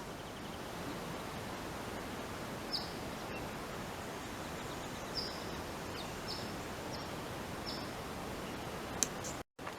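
Steady outdoor background hiss with a few short, high bird chirps spaced a second or so apart. The sound drops out briefly near the end.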